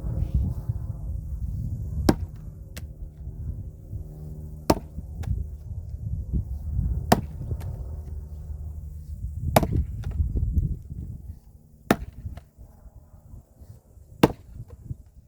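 Axe splitting wood by hand: sharp single blows about every two and a half seconds. A low steady hum underneath stops about eleven seconds in.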